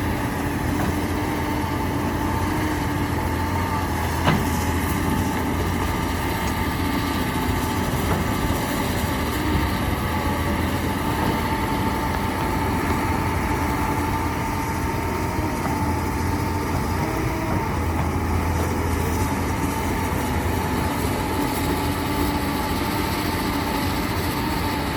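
Heavy construction machinery running steadily, a diesel engine with a constant whine over it. There is one sharp knock about four seconds in.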